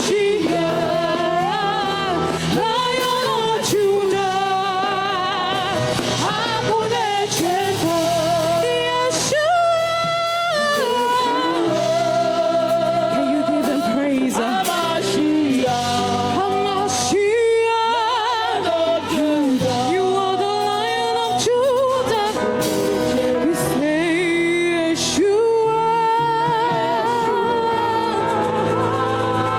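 Gospel worship music: a lead voice singing with vibrato over steady keyboard and band accompaniment.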